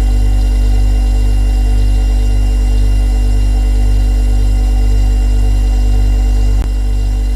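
Refrigerator compressor running with a steady low hum and faint steady whine above it. A brief click comes about six and a half seconds in, after which the hum is slightly quieter.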